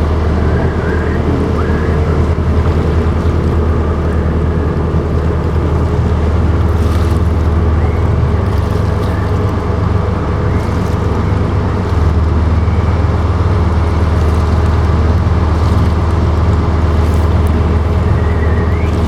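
Boat motor running steadily, heard from on board, with wind and water noise over it; the motor's note steps up slightly about twelve seconds in.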